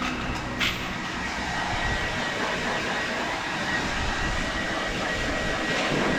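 Electric blow dryer running steadily, blowing air over a wet dog's coat after a bath, with a faint high whine. A sharp click comes a little over half a second in.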